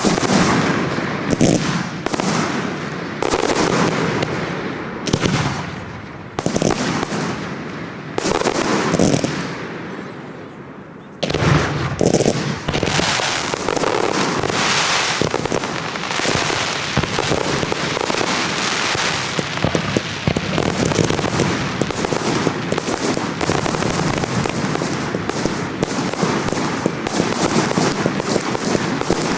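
Display fireworks going off. Big shells burst one at a time every second or two, each with a rumbling echo. About eleven seconds in, this gives way to a dense, continuous barrage of rapid bangs and crackling.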